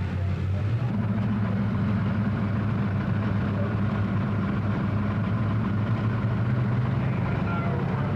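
A tractor engine running at a steady speed, its pitch stepping up slightly about a second in and then holding.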